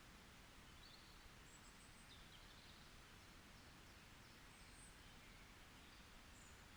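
Faint forest ambience: a steady soft hiss with a few brief, high-pitched distant bird chirps scattered through it.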